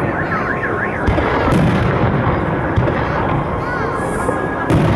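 Fireworks salute going off: repeated booming bangs over a continuous dense rumble, with the loudest bangs about a second in and near the end. A warbling car alarm sounds through it twice.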